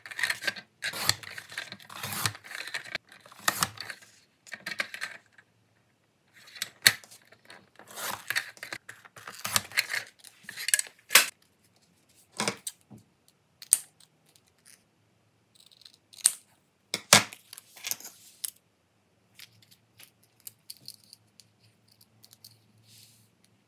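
Desk crafting sounds: a sliding paper trimmer cutting a sticker sheet, paper rustling, and sharp clicks and taps of small plastic pieces being handled. The sounds come in separate short bursts, busiest in the first half.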